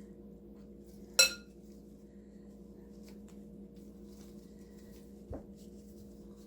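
Hard objects clinking at a work table: one sharp, ringing clink about a second in and a duller knock about five seconds in, with a few faint ticks over a steady low hum.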